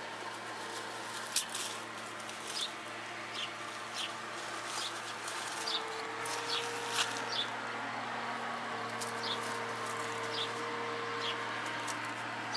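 A small bird chirping: short, high chirps repeated irregularly, about once a second, over a steady faint hum.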